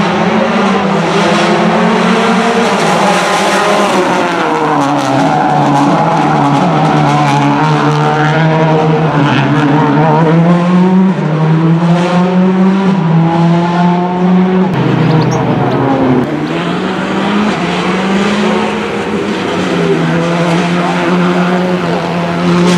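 Subaru Impreza WRC S14's turbocharged flat-four engine running at steady held revs, the pitch stepping up and down slightly a few times. About two-thirds of the way through the revs drop briefly and climb back.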